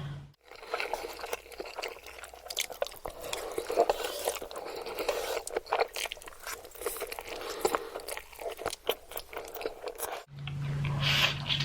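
Close-miked eating sounds: a person chewing and biting food, with irregular crunches, clicks and scraping.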